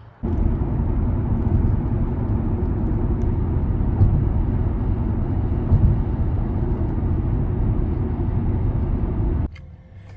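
Steady low rumbling road and wind noise from a car on the move, starting suddenly and cutting off suddenly near the end.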